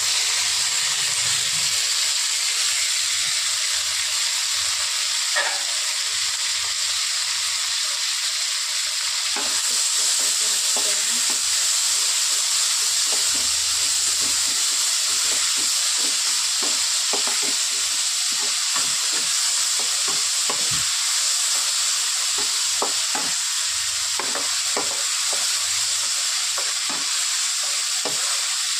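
Onions, tomatoes and chopped greens sizzling in hot ghee and oil in a kadhai, with a steady hiss that grows louder about ten seconds in. A wooden spoon stirs the mix from about then on, knocking and scraping against the pan again and again.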